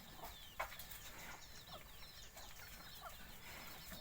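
Faint chicken clucking, many short calls scattered throughout, with one louder call about half a second in.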